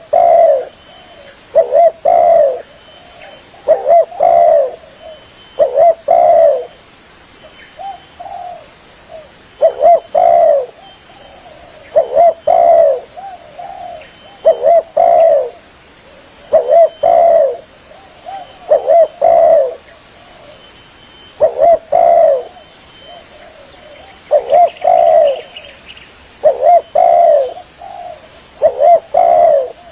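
Spotted dove (tekukur) cooing: a short phrase of a few coos, repeated about every two seconds.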